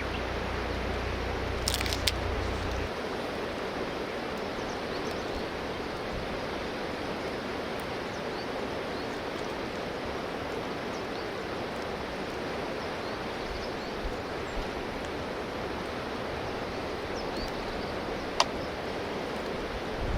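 Steady rush of flowing river water, with a low rumble that stops about three seconds in. A sharp click comes about two seconds in and another near the end.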